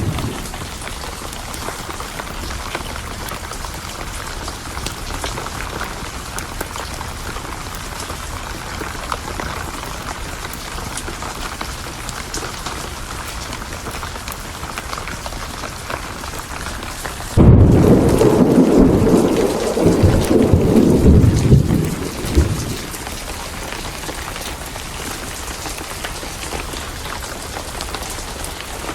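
Steady rain with a thunderclap that breaks suddenly about two-thirds of the way in and rumbles for about five seconds before fading back into the rain. A previous thunder roll dies away at the very start.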